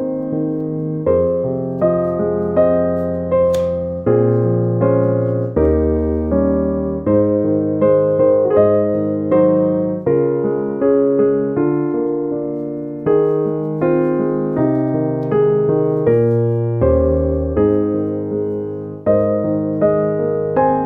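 Background music: piano or electric piano playing a slow sequence of chords, each struck and then decaying.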